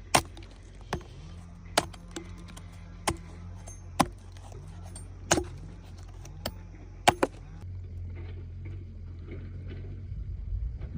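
Flint and steel struck together in a series of about eight sharp, irregularly spaced clicks, sparking onto tinder fungus, over a steady low hum.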